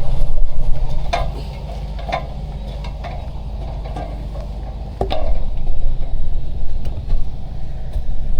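An engine running steadily at a low idle, with a few sharp clicks and knocks over it about one, two and five seconds in.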